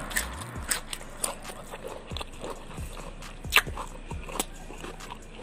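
Close-up eating sounds: chewing a mouthful of grilled fish and sambal, with scattered small wet clicks and smacks and one sharper click a little past halfway.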